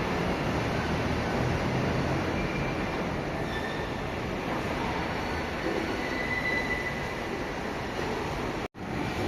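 Recife Metro train running through a station: a steady rumble with a few faint, thin wheel squeals. The sound drops out abruptly for an instant near the end.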